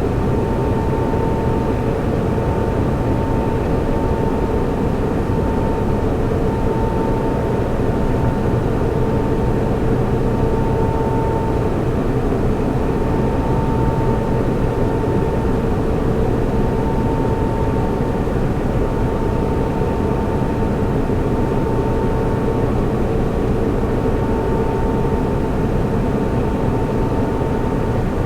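Server room ambience: cooling fans rushing steadily, with a steady mid-pitched whine and a lower hum over it.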